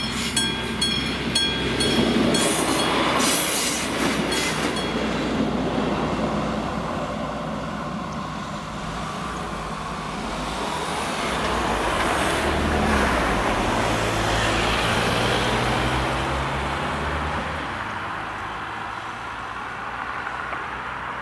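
A level-crossing warning bell rings about twice a second for the first few seconds, then stops. A diesel passenger train runs over the crossing with rail clatter and engine drone, the drone swelling and then fading away.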